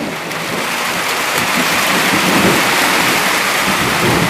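Heavy rain pouring down, growing steadily louder as the downpour picks up, with a low rumble of thunder underneath.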